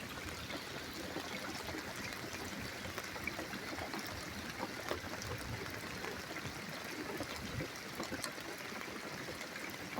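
Steady rain during a thunderstorm: a constant hiss of falling and running water with faint scattered drip ticks.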